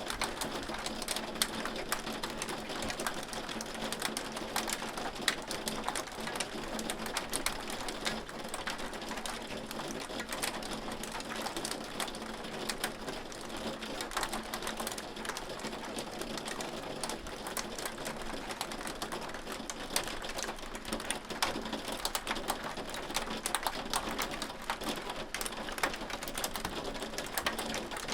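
Hailstones falling and striking a hard surface: a dense, steady clatter of many small sharp ticks over an even hiss.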